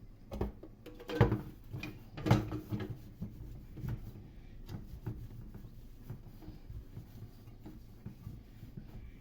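Objects being handled: a few sharp knocks about one and two seconds in, the second the loudest, then lighter taps and faint rustling.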